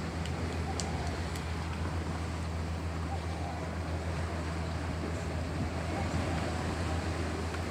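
Boat engine running steadily, a constant low drone, with rushing wind and water noise over it.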